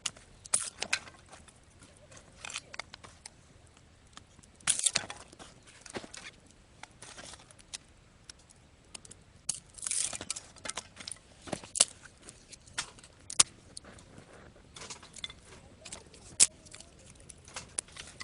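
Small wood fire crackling: irregular sharp snaps and pops, with a few louder cracks scattered through.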